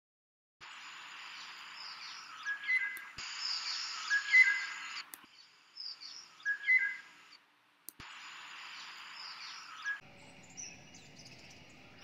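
A recording of wild birds calling: short whistled notes and higher chirps over a steady hiss. It is cut into several pieces that start and stop abruptly.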